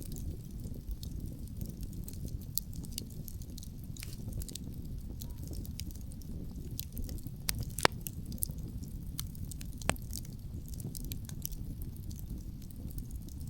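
Wood fire crackling with many scattered sharp pops, the loudest about eight seconds in and another about ten seconds in, over a steady low rumble of wind.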